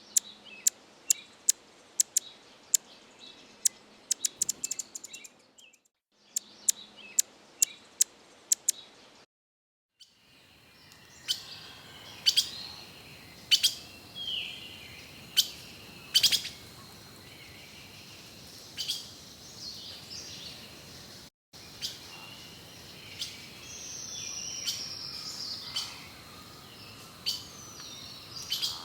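Small birds chirping: quick runs of short, sharp chirps, broken by brief silences, then scattered chirps and calls over a steady background hiss, with a falling whistled call past the middle.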